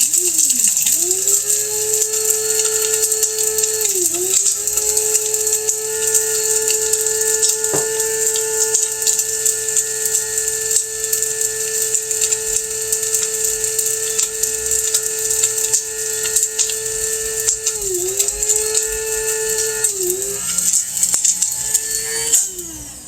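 Electric spice grinder running steadily, grinding dried garlic chunks to powder, with a high rattling hiss from the pieces. Its motor pitch dips briefly about four seconds in and twice near the end as the button is let off and pressed again, and it stops shortly before the end.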